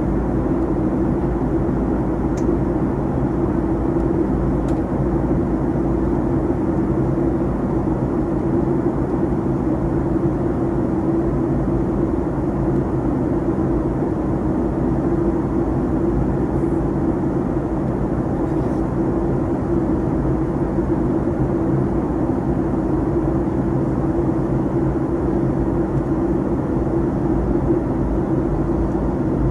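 Steady cabin drone inside a Boeing 737-800: jet engine and airflow noise, level and unchanging, with a constant low hum.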